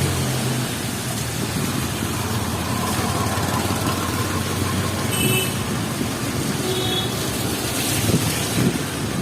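Busy city street in heavy rain: a steady wash of traffic and rain noise, with a vehicle engine's low hum that stops shortly after the start and a couple of brief high-pitched tones a little past the middle.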